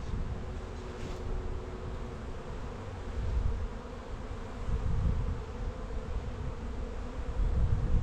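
Honeybees buzzing around an open hive, a steady hum, with low gusts of wind rumbling on the microphone.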